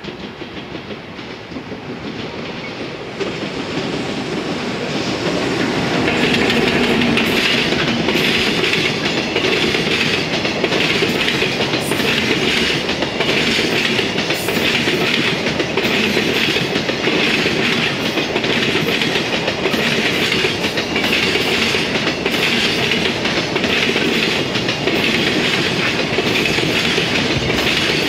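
A long container freight train hauled by a JR Freight EF210 electric locomotive approaches and passes close by. The noise grows over the first six seconds, then the container wagons run past steadily, their wheels clacking again and again over the rail joints.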